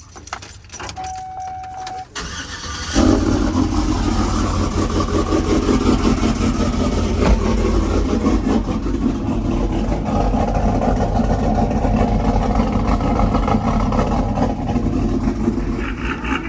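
A few clicks and a short steady tone, then the cammed GM pickup's engine starts about three seconds in and settles into a loud, choppy, loping idle.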